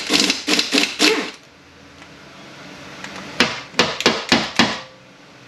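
Metal hand-tool work on an automatic transmission: a quick run of sharp metallic clicks for about the first second and a half, then, after a short pause, five separate sharp metal taps.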